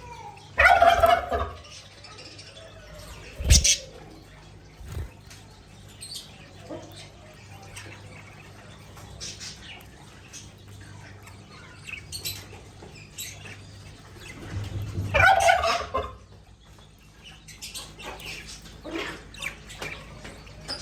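Budgerigars chirping and chattering, with two louder squawking bursts, one about a second in and one about three-quarters of the way through, and many short chirps between. A single sharp tap comes a few seconds in.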